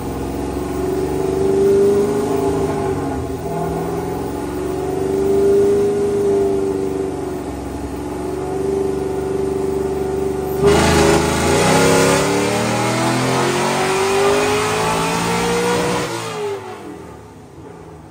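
The 6.2-litre LS3 V8 of an LS-swapped Scion FR-S runs under load on a hub dyno, holding a fairly steady note for about ten seconds. It then goes louder and rougher and climbs in pitch for about five seconds of a dyno pull. Near the end the throttle closes and the engine note falls away.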